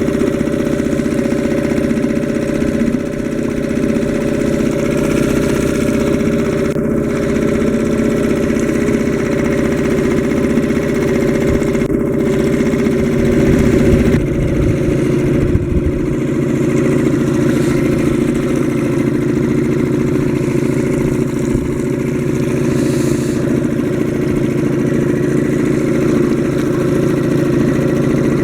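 Suzuki DF 2.5 single-cylinder four-stroke outboard motor running steadily through its first hours of break-in, with a slight shift in engine pitch about halfway through.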